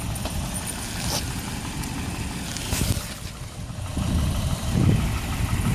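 Wind buffeting the microphone, an uneven low rumble that swells about four seconds in, over the sound of a car running slowly as it is manoeuvred into a parking space.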